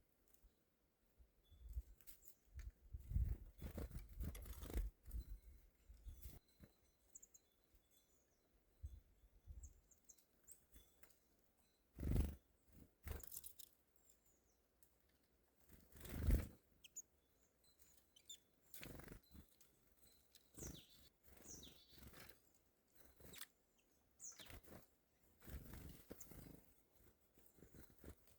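Small birds at a winter feeder giving brief, high, scattered chirps, among soft knocks and rustles; the loudest knocks come about three to five seconds in, about twelve seconds in and about sixteen seconds in.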